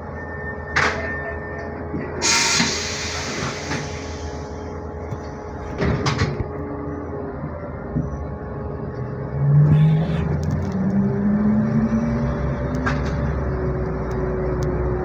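Inside a ZiU-682G trolleybus: a steady running hum with a few knocks and a short burst of air hiss about two seconds in. From about ten seconds in, the traction motor's whine rises in pitch as the trolleybus gathers speed.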